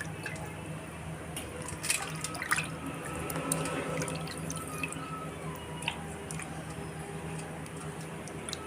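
Water dripping and splashing in small irregular drops, with scattered light clicks and knocks, over a steady low hum.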